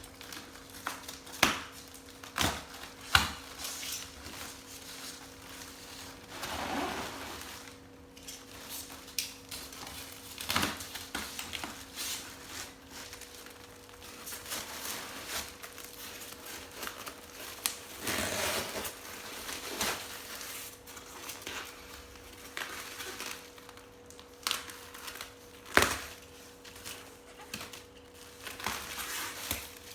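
Assorted household handling sounds: scattered sharp clicks and knocks with a few longer rustles, over a faint steady hum.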